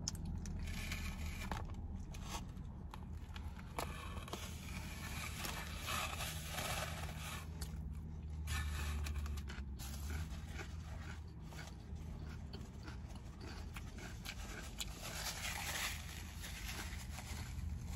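Close-up chewing and mouth sounds of someone eating a street taco, with small crunches and rustles of the food in her hands, over a low steady hum.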